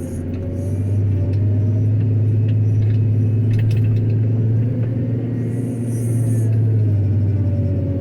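JCB 426ZX wheel loader's diesel engine working under load while digging gravel: it grows louder about a second in, its pitch rises and falls, and it eases back near the end.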